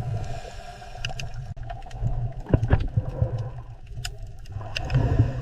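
Underwater-style water ambience: a steady low rumble with scattered sharp clicks.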